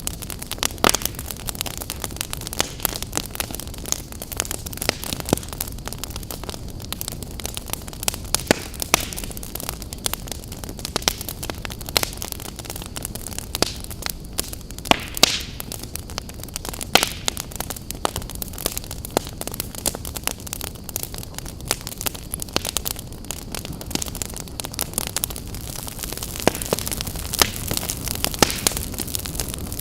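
Wood fire crackling: a steady low rush of burning broken by frequent irregular sharp pops and snaps, a few louder ones now and then.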